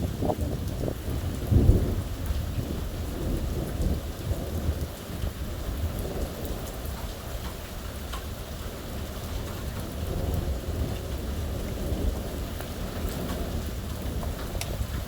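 Thunderstorm: steady rain with low rolling thunder, a louder rumble about a second and a half in.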